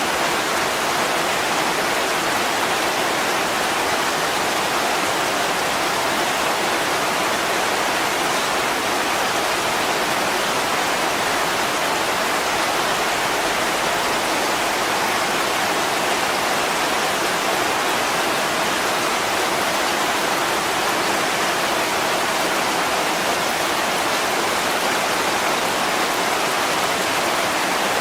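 Heavy rain pouring onto a window, an even, unbroken hiss with no distinct drops or crackles.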